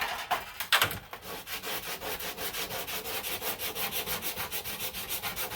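100-grit sandpaper on a hand sanding block rubbing over body filler on a car panel in rapid, even back-and-forth strokes. A couple of knocks come in the first second, before the steady strokes begin.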